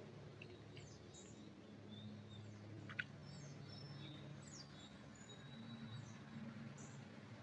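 Faint forest birdsong: scattered short, high chirps and whistled notes from small birds, over a low steady hum, with one sharp click about three seconds in.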